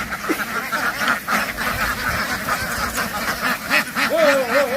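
A large flock of domestic ducks quacking all at once in a dense, overlapping chorus, with a drawn-out wavering call near the end.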